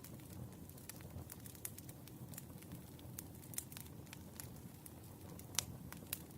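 Wood fire burning: sharp, irregular crackles and pops over a low, steady rumble of flames, with one louder pop about five and a half seconds in.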